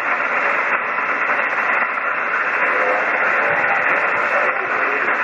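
HF single-sideband receiver on the 40-meter band giving out steady loud static hiss between transmissions, the band noise of a noisy night. A weak voice barely shows through the hiss in the middle.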